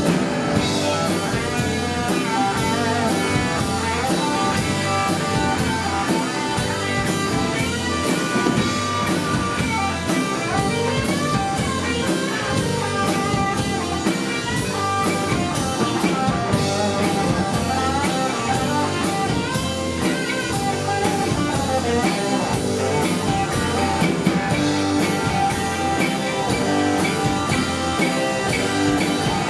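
Live blues-rock band playing: guitar over a drum kit keeping a steady beat.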